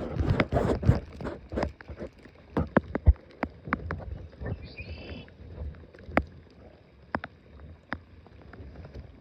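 Irregular sharp knocks and clicks of gear and bodies moving in a small boat on water, busiest in the first second, with a brief faint high chirp about five seconds in.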